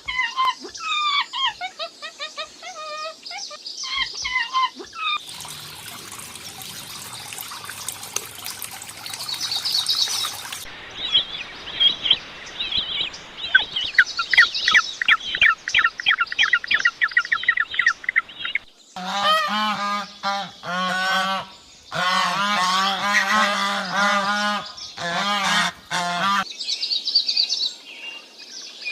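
Several clips of bird calls in turn. First come high gliding chirps and a rapid run of short twittering notes. Then a series of loud, low, nasal calls from waterfowl comes in several bursts, and high chirping returns near the end.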